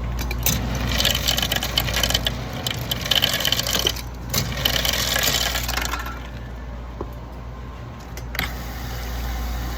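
Several seconds of quick clattering and clinking of small hard objects over a steady low hum.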